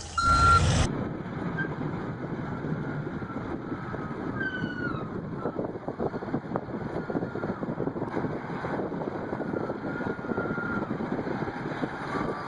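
A vehicle reversing alarm beeps a few times, then stops abruptly. After that comes a steady noisy machine-and-vehicle rumble with faint, short squeals.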